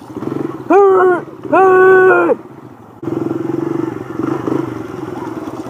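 Dirt bike engine revved twice in quick blips, each rising, holding and dropping back, then running steadily.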